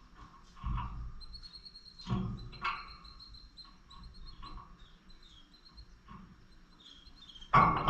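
Pet lovebirds chirping in short high peeps, with a few soft knocks among them. Loud music comes in just before the end.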